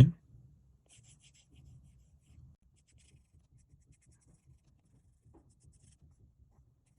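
Faint taps and scratches of a stylus tip on an iPad's glass screen, coming in a few short clusters of ticks while drawing.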